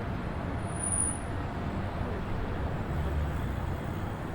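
Outdoor city street ambience: a steady low rumble of passing traffic under a general hum, with a brief high tone about a second in.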